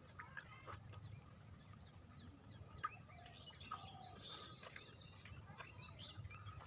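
Faint birds chirping: many short, quick chirps overlapping, with a few lower calls among them.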